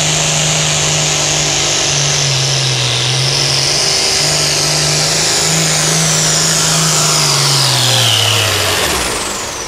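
Turbocharged diesel engine of an International hot farm pulling tractor running hard under full load, with a loud high turbo whine over the engine note. About eight seconds in, the engine pitch drops and the turbo whine sweeps down as the throttle comes off at the end of the pull.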